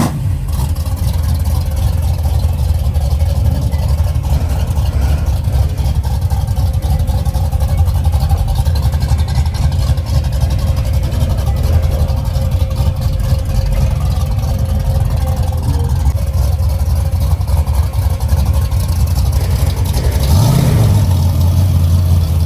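Car engine running with a steady low rumble. Near the end it revs up in a short rise and settles into a louder, steady drone.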